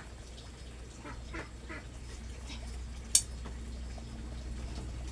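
Three short animal calls in quick succession about a second in, like the calls of farm fowl, and then a single sharp click or snap about three seconds in.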